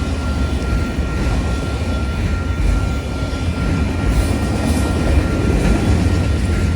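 A train running past: a steady, loud rumble with a faint steady whine above it.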